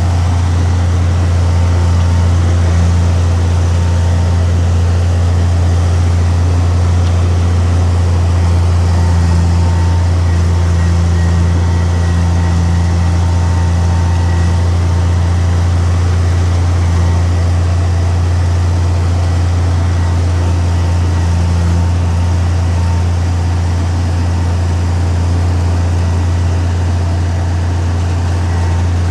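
Heavy diesel engine of earthmoving machinery running steadily, a low, unchanging drone.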